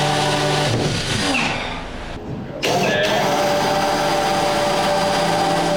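An electric power tool's motor runs steadily, winds down about a second in, then spins back up with a rising pitch and keeps running.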